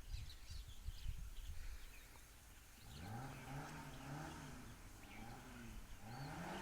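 Faint animal calls outdoors: a few high bird chirps, then from about three seconds in a low call that rises and falls, repeated about once a second.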